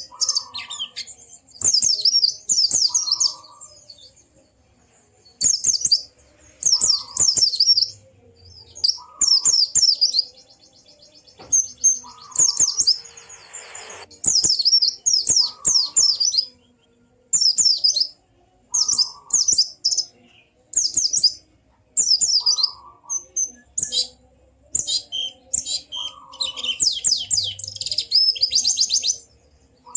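White-eye (pleci) singing: rapid high twittering phrases repeated about every second, with fast trills about a third of the way through and again near the end, and a short lower note recurring every couple of seconds.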